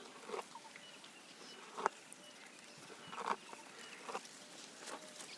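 Giraffe feeding on leaves: about five short crackles and rustles of foliage being pulled and chewed, the sharpest a little under two seconds in.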